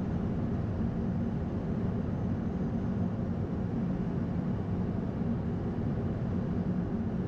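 Steady flight-deck noise of an Airbus A220-100 on final approach with landing flaps set: an even rush of airflow and engine noise with a low rumble, unchanging throughout.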